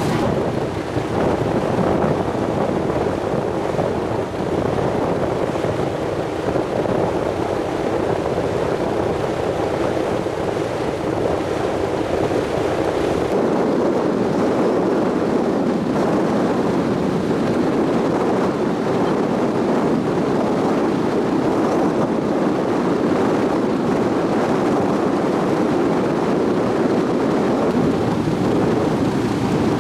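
Sightseeing cruise boat under way: a steady rush of engine, wind and water, with wind buffeting the microphone. The low rumble eases about thirteen seconds in.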